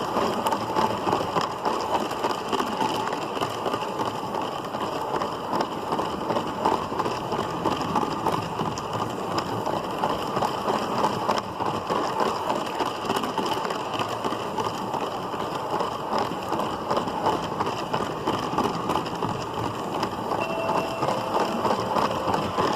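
Motorised LEGO City Passenger Train 60197 running along plastic track, heard from on board one of its cars: a steady, dense rattling clatter of the wheels and cars.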